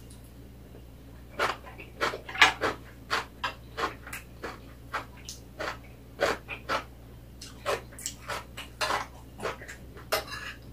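Close-up eating sounds: a person chewing cabbage kimchi and fried rice with irregular wet smacks and clicks of the mouth. A metal spoon scrapes and taps on a china plate in between.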